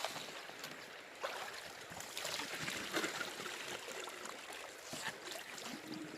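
Shallow river water trickling and splashing, with a few light clicks scattered through.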